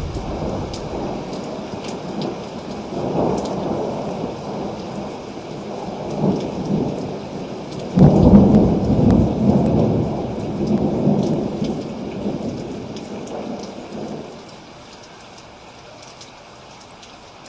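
Steady rain with rolling thunder: a louder peal breaks suddenly about halfway through and rumbles away over several seconds, leaving only the rain near the end.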